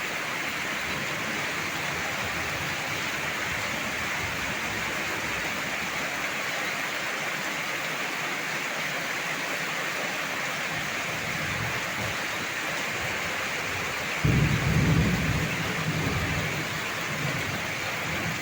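Heavy rain pouring steadily, with a sudden low clap of thunder about fourteen seconds in that rumbles on for two to three seconds.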